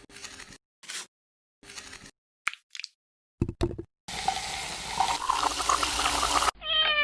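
Rushing, water-like noise for about two and a half seconds, stopping abruptly, after a few brief scuffs and knocks; a short pitched call or tone follows near the end.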